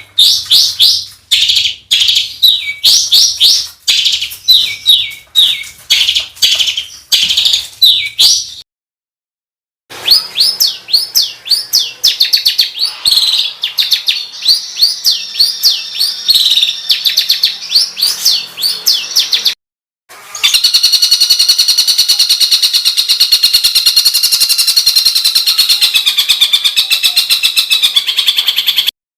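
Recorded songbird song edited into a sequence with short silent gaps: first a string of quick, repeated sweeping chirps, then after a second gap a very fast, steady, harsh trill for the last third. These are the rough, rapid 'burst' phrases used as masteran to teach competition songbirds.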